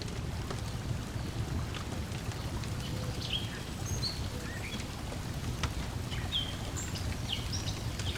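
Lakeside ambience: a steady low wash of water lapping at the shore, with scattered crackles from a wood fire and a few short bird chirps in the second half.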